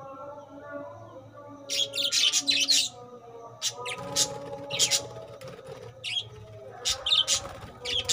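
A flock of budgerigars in a colony aviary chattering, with repeated bursts of sharp, scratchy chirps over a steady warbling background.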